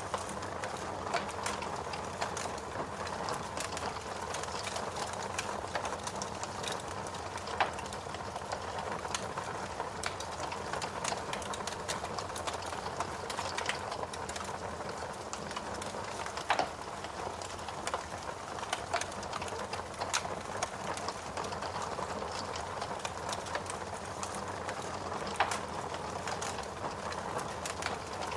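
Steady rain mixed with a crackling wood fire in a fireplace: constant fine clicking and ticking over a soft hiss, with a few sharper pops scattered through.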